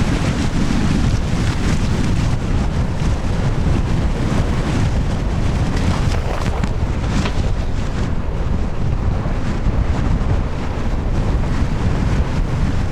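Strong wind buffeting the microphone, with water rushing past the hulls of a Tornado catamaran sailing fast in 20-25 knots of wind.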